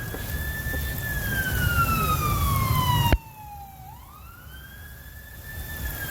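Emergency vehicle siren on a slow wail, rising and falling in pitch twice, over low road rumble that drops away abruptly about three seconds in.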